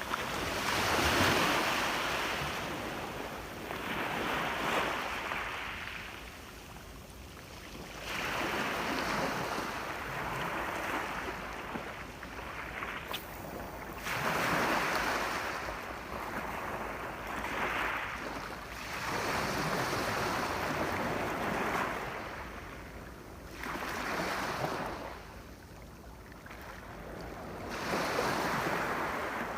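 Sea waves breaking and washing onto the shore, each swell of surf rising and fading away every three to four seconds.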